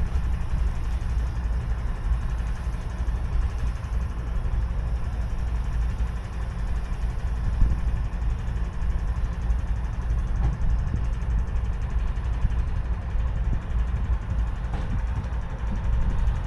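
High-rail service truck's engine idling steadily, a low continuous rumble.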